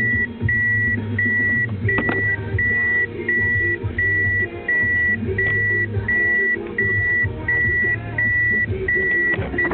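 An in-cabin warning beeper in a Toyota Passo Sette sounds a steady high beep about one and a half times a second, stopping near the end, with music playing over it.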